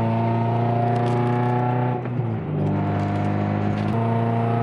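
A K24-swapped Acura RSX with a straight-piped exhaust drones steadily while driving, heard from inside the cabin. The drone is briefly disturbed about two seconds in and steps in pitch again about four seconds in.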